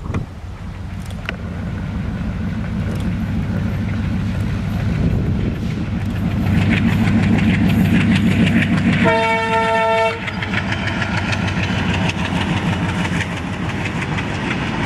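Train running past with a low rumble and wheel noise that grows louder, and a single locomotive horn blast of about a second, about nine seconds in.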